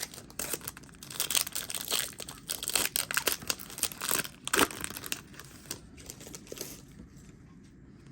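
A Yu-Gi-Oh! booster pack's foil wrapper being torn open and crinkled: a dense run of crackling that starts right away, is loudest through the middle and dies away near the end.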